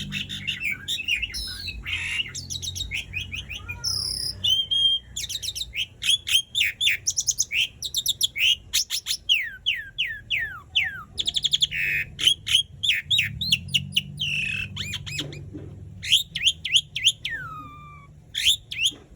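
Asian pied starling (jalak suren) singing a long, varied song: quick runs of high, down-sliding whistled notes mixed with chattering rattles, in near-continuous phrases with only brief breaks.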